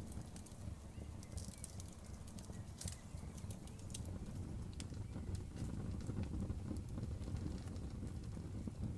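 Campfire burning: scattered sharp crackles and pops of the wood over a steady low rumble.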